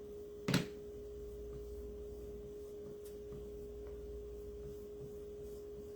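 A steady, single-pitched hum holds throughout, with one sharp click about half a second in.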